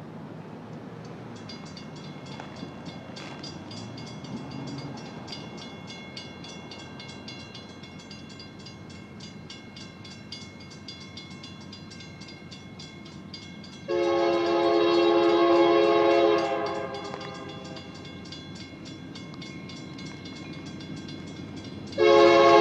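Diesel freight locomotive approaching, its bell ringing steadily from about a second and a half in. Its air horn sounds one long blast about two-thirds of the way through, and a second blast starts near the end.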